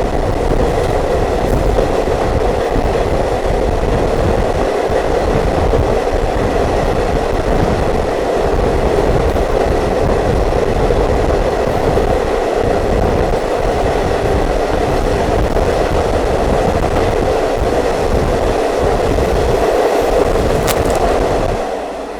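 A diesel multiple unit train running along the track, heard from on board: a steady loud rumble and rush of wheels on rail that eases off slightly near the end.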